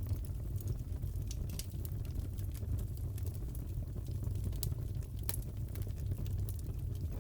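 Wood fire crackling in a fireplace: a steady low rumble with scattered sharp pops and snaps.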